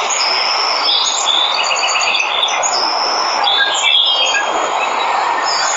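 Steady rush of falling water with many birds chirping and calling over it, including a quick run of short repeated chirps about two seconds in.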